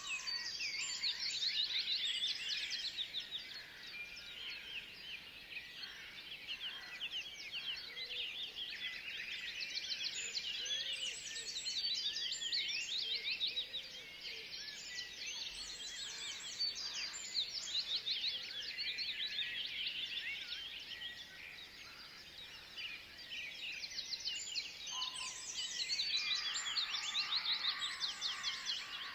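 A chorus of woodland songbirds: many fast, overlapping high chirps and trills from several birds at once, swelling and easing several times, quietest a little past the middle.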